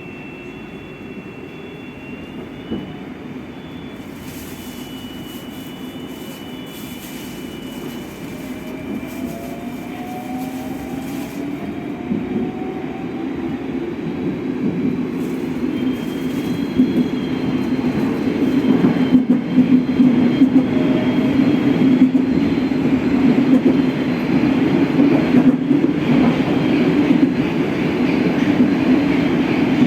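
Moscow Metro train running on the track and getting steadily louder. Its motors give a thin whine that glides upward for a few seconds, and the wheels knock over rail joints several times in the second half.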